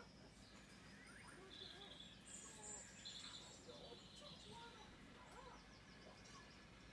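Faint birdsong: several short, high, quick trills and chirps over a quiet background.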